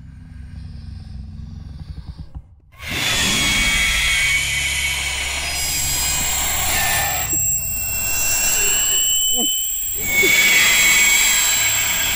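Film sound effects: a low rumble building, then a sudden loud roaring, hissing noise with high ringing tones over it, which drops away briefly twice.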